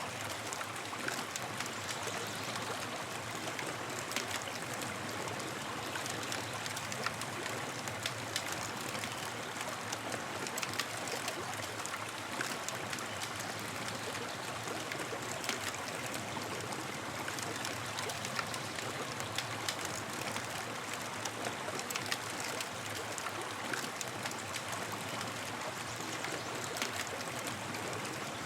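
Campfire crackling: a steady hiss with frequent sharp pops and snaps scattered irregularly throughout.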